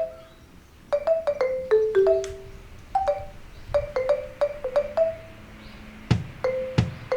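Background music: a light melody of short struck notes on a marimba-like mallet instrument, with low bass notes joining about six seconds in.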